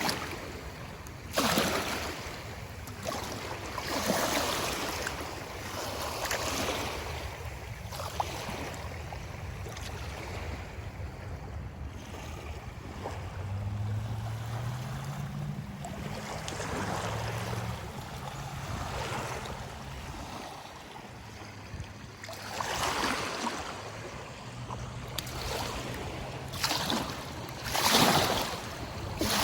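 River water rushing and washing in swells every few seconds, with wind rumbling on the microphone. A faint low hum, like a distant engine, runs through the middle stretch.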